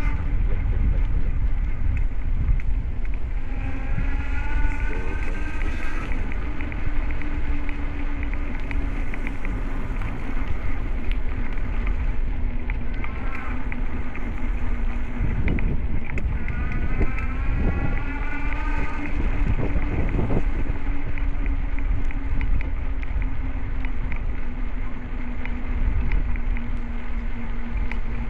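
Wind buffeting the microphone while riding a bicycle, over a steady low hum. A higher whine comes and goes a few times.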